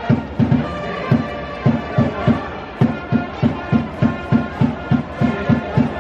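Baseball cheering band playing a cheer song on trumpets over a steady bass-drum beat, about three or four beats a second.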